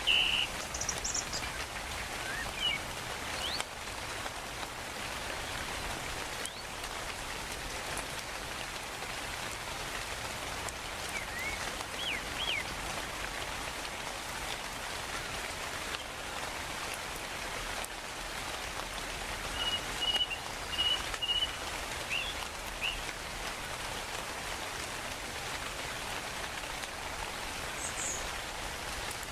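Steady rain falling, with scattered bird calls over it: short chirps and quick rising whistles, a run of chirps a little after the middle.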